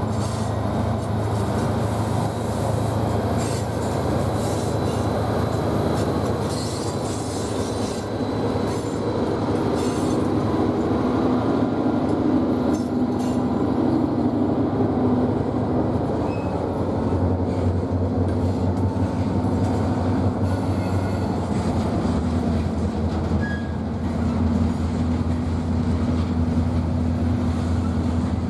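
BNSF freight train rolling past, with a steady rumble of wheels and cars over the rails and a low diesel drone that grows stronger about halfway through. A faint, thin, high wheel squeal runs over the first several seconds.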